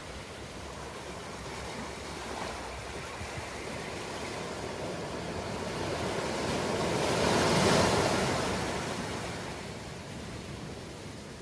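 Ocean waves washing on the shore in a steady rush, with one wave building to a loud peak about two-thirds of the way through and then fading away.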